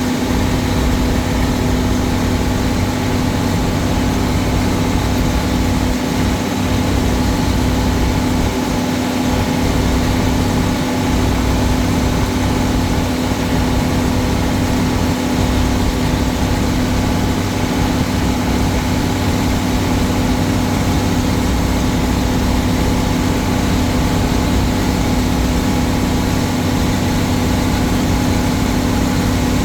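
An old Case tractor's engine running at a steady speed, a constant, even drone with a low rumble beneath it.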